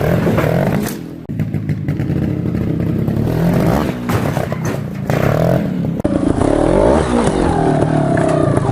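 Beta Rev 3 trials motorcycle engine running and being blipped, its pitch rising and falling as it revs up and down in the latter part, with a few sharp knocks and scrapes.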